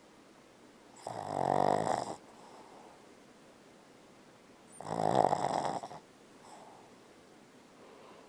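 Boston Terrier snoring in its sleep: two loud snores about four seconds apart, each lasting about a second, with faint breathing between them.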